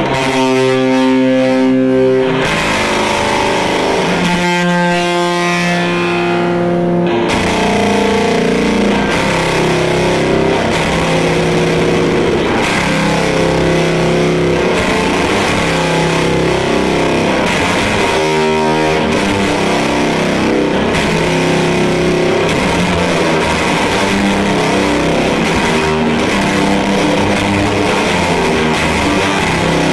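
Distorted electric guitar played through the EarthQuaker Devices Fuzz Master General fuzz and a modulation pedal into a Fender Deluxe Reverb amp. It opens on held chords and long sustained notes, then moves into continuous chord playing.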